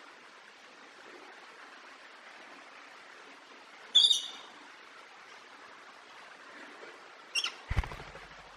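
A parrot gives a short, loud, shrill squawk about four seconds in and another brief call near the end, over a steady background hiss. A loud thump comes right after the second call.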